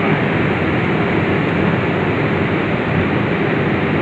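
Machine running steadily: an even, loud rushing noise with a low hum and no breaks.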